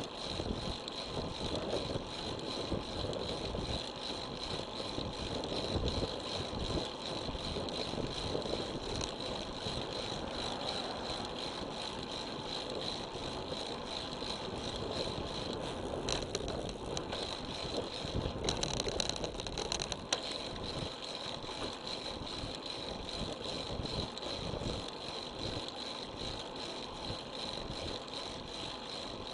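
Road bicycle riding along: steady wind and tyre noise, with a brief brighter hiss and a click about two-thirds of the way in.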